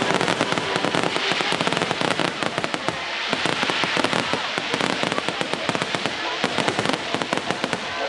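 Aerial fireworks bursting overhead: a dense, unbroken barrage of rapid bangs and pops.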